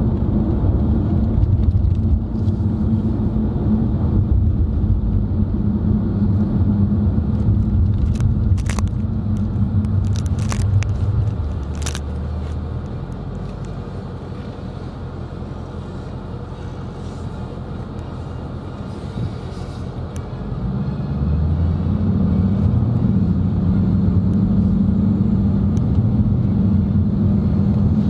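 Car cabin noise while driving: a steady low rumble of engine and road. It drops away for several seconds about halfway through, then rises back to its earlier level; a few faint clicks sound about a third of the way in.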